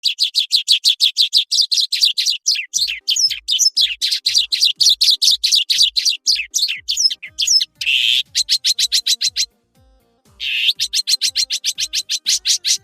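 A songbird singing a fast, continuous run of sharp chirping notes, about eight to ten a second. A harsh, buzzy note breaks the run about eight seconds in, and another follows a brief pause about ten and a half seconds in.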